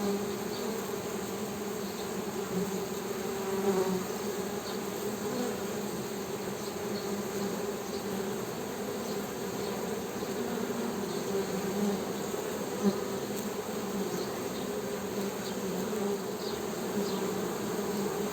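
Honey bees humming: a steady, unbroken buzz with a few faint ticks.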